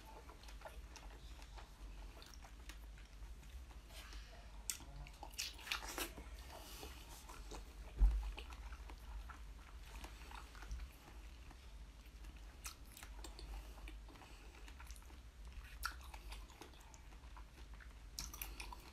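Close-up chewing and biting of strawberry jelly with whole strawberries set in it: soft wet mouth sounds broken by short clicky bites. There is one louder thump about eight seconds in.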